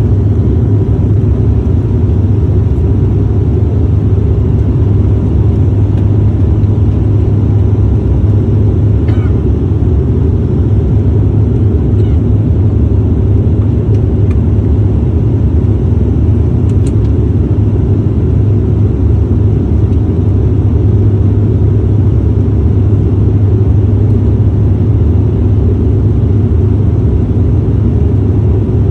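Airliner cabin noise in flight: a loud, steady low rumble of engines and airflow, with a faint steady whine above it and a few light ticks.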